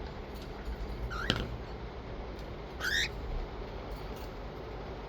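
Lutino parrot giving two short, rising squawking calls about a second and a half apart, with a sharp click at the first call, over a steady low hum.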